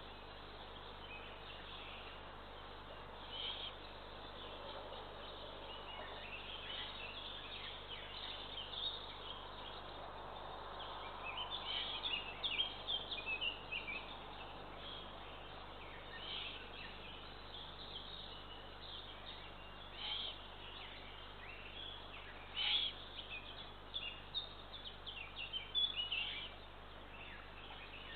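Birds calling: many short, high chirps come in clusters, busiest near the middle and again near the end, over a steady low hiss.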